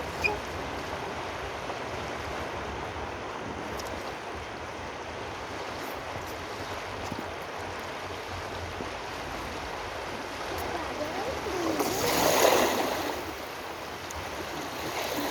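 Steady rush of flowing water, with a louder surge of water noise about twelve seconds in.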